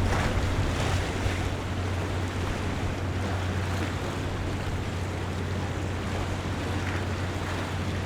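Harbour waterfront ambience: water washing along the shore under a steady low engine hum, with a slightly louder rumble in the first second or so.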